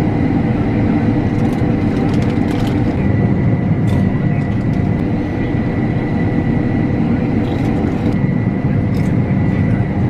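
Combine harvester running steadily at work in a wheat field: a constant loud drone with a thin steady high whine over it and a few faint ticks.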